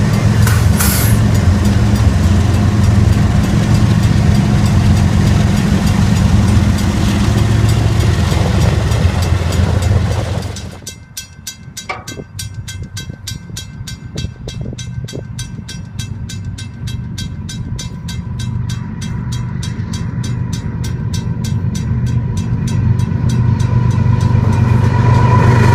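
Train passing close by: a loud, steady low rumble that drops sharply about ten seconds in, then slowly builds back up, with rapid regular clicking, about four a second, through the quieter stretch.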